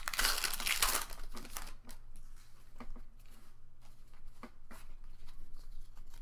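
A foil Pokémon trading-card booster pack being torn open: a loud crinkly rip in the first two seconds. Then quieter crinkling of the wrapper and small clicks as the cards are slid out and handled.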